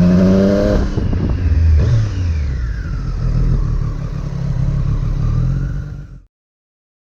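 Triumph Street Triple 765 S's inline three-cylinder engine through an Arrow exhaust, rising in pitch under acceleration, then backing off about a second in and running at lower revs with a rough, uneven note. The sound cuts off suddenly about six seconds in.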